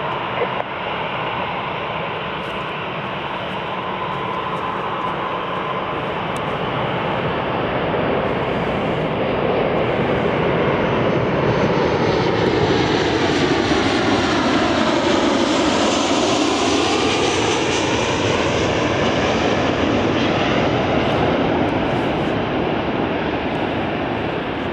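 Boeing C-40C (737-700) jet passing low on final approach to land. Its engine noise builds to a peak about midway through, then fades as it goes by.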